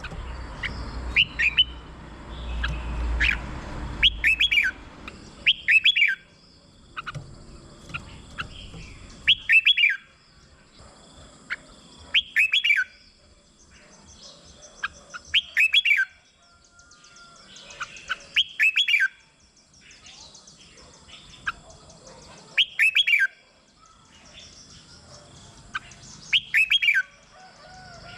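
Red-whiskered bulbul singing: short, loud whistled phrases of quick rising and falling notes, one every one to three seconds. A low rumble sits under the song for the first few seconds.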